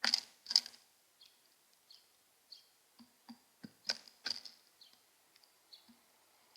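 House sparrow chirping, a run of short repeated cheeps about every half second, mixed with several sharp knocks and taps; the loudest taps come right at the start and about four seconds in.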